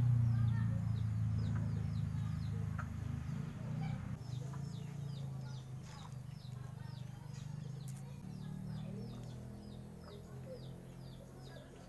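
Small birds chirping steadily, short falling chirps a few times a second, over a low steady hum that starts loudest and fades away.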